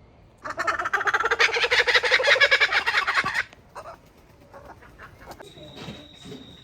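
An animal's loud call: one rapidly pulsing cry of about three seconds, rising slightly in pitch.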